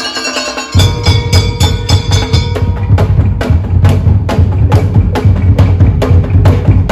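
Daul Madura percussion music played loud through a large sound system: a fast, even rhythm of wooden tongtong strikes and drums over a heavy bass pulse. The bass comes in under a second in, and held melodic tones sound over the first couple of seconds before the percussion carries on alone.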